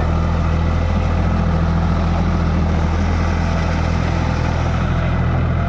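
John Deere 5050D tractor's diesel engine running steadily at a constant speed, with no revving.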